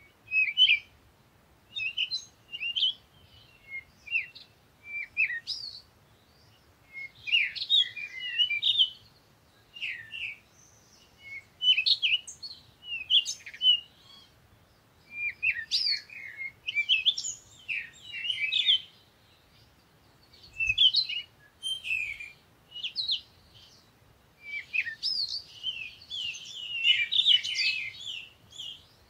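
Small birds chirping and twittering in short bursts with brief pauses, several calls overlapping and busiest near the end.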